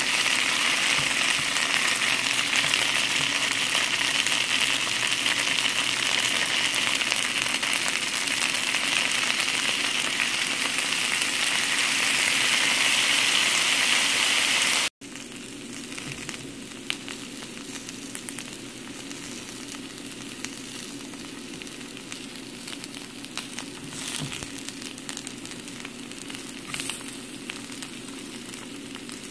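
Slices of Chinese carrot rice cake sizzling in oil in a nonstick frying pan. The sizzle is loud and dense for about half the time, then cuts off abruptly and resumes much quieter, with a few light clicks.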